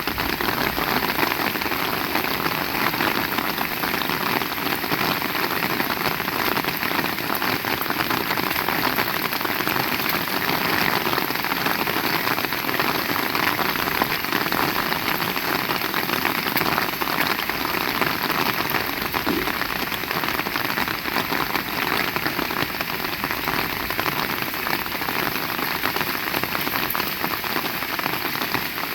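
Heavy rain falling steadily, a dense patter of drops striking surfaces without letup.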